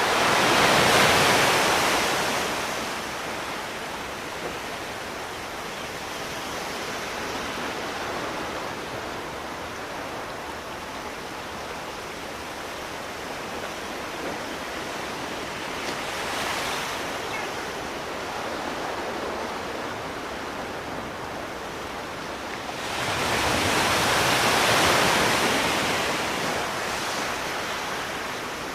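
Sea waves breaking on a shore: a steady wash of surf with a big wave surging in at the start, a smaller one about halfway, and another big one near the end.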